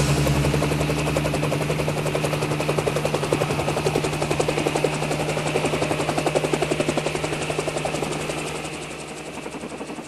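QS 8005 Kingsize RC helicopter's motor and rotors whirring, with a steady hum and a fast, even rotor chop; the sound fades over the last couple of seconds.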